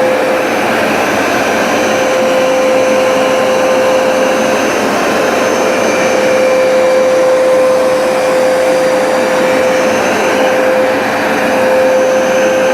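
Hoover SmartWash automatic carpet cleaner running on a rug: its suction motor gives a steady rushing noise with a constant hum-like whine.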